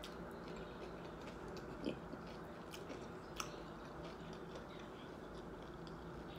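Quiet chewing of a taco with a baked shell: scattered faint mouth clicks and small crunches, a slightly louder one about two seconds in and another past the middle.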